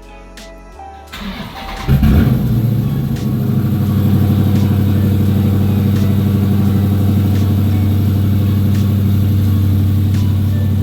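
2019 Dodge Scat Pack's 392 Hemi V8 cold-started: the starter cranks for about a second, the engine catches with a loud flare about two seconds in, then settles into a steady idle.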